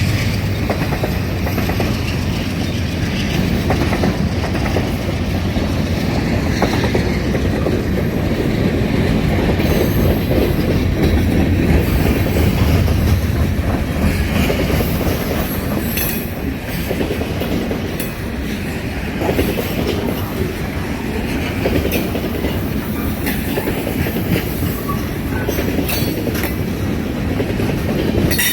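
Freight train cars rolling past, with steady rumbling and scattered sharp clicks from the wheels running over the rail.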